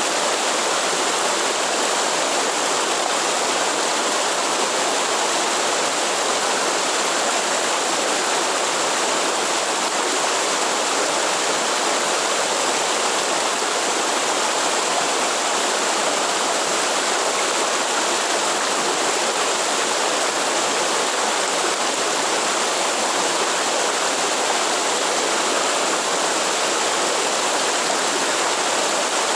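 Waterfall pouring steadily, an even, unbroken wash of falling water.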